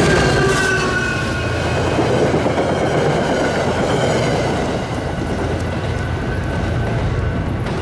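Diesel-hauled commuter train passing close by at speed: engine drone and the clatter of wheels over the rail joints. In the first second or so a tone drops in pitch as the locomotive goes by, and the noise eases a little once the last coach has passed.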